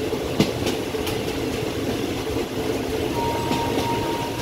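Passenger train running along the rails: a steady rumble, a sharp knock about half a second in, and a thin steady tone for the last second or so.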